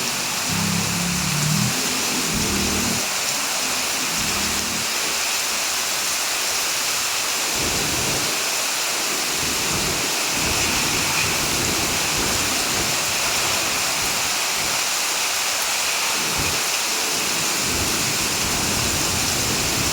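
Heavy rain falling steadily, an even hiss without a break, with a low rumble in the first couple of seconds.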